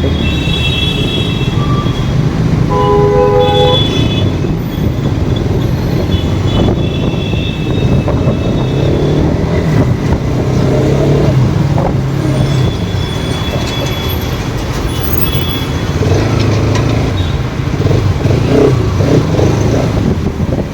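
Motorcycle riding through traffic, with heavy wind rumble on the microphone. A vehicle horn sounds briefly about three seconds in.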